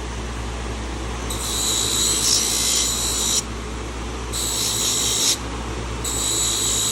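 Small handheld power tool whining in three bursts of one to two seconds each, used to clean rust and grime off an old carbon-steel pocket knife, over a steady low hum.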